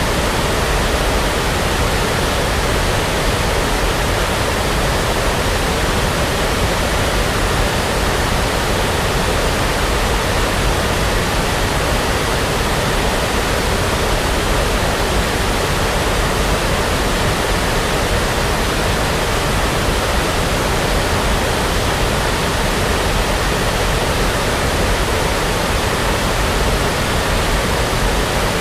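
Steady synthetic brown noise: an even, unchanging rush of noise with no breaks or events.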